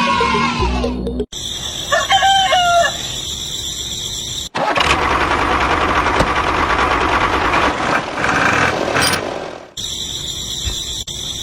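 A rooster crows once, briefly, about two seconds in, over a steady high whine. After a sudden cut a loud, even rushing noise takes over for about five seconds, then cuts back to the high whine.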